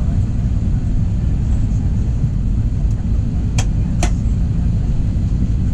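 Steady low rumble of an Airbus A321's cabin at the gate or on pushback, with two sharp clicks about three and a half and four seconds in.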